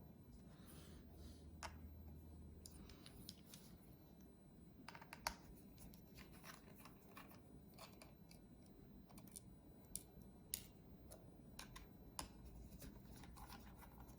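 Faint, scattered clicks and light scrapes of a small screwdriver working on the plastic case of a 2.5-inch portable hard drive, with a low steady hum under them.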